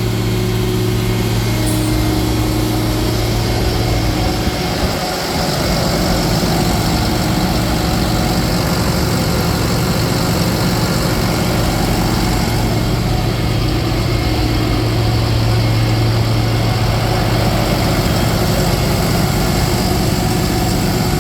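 Cummins diesel engine of a Freightliner M2 asphalt patch truck idling steadily, its low hum dipping briefly about five seconds in.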